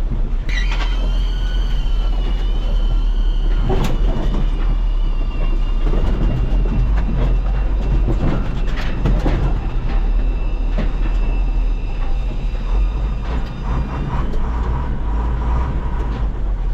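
A heavy truck driving on a rough road, heard up close: a steady low engine and road rumble with rattles, knocks and high metal squeaks.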